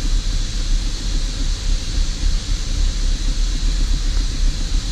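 Holden VZ Crewman's 3.6-litre Alloytec V6 idling rough, heard from inside the cab as an uneven low throb under a steady hiss. The rough idle is one the mechanic suspects comes from a vacuum leak.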